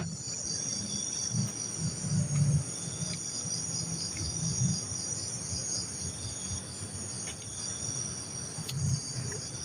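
Crickets and other night insects trilling steadily in high, pulsing tones, with soft low thumps underneath.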